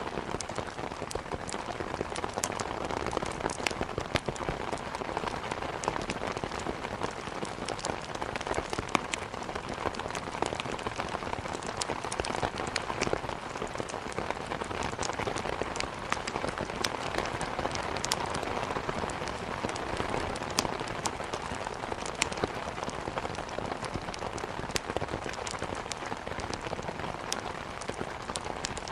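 Steady rain, with frequent sharp crackles from burning wood in a fireplace scattered irregularly through it.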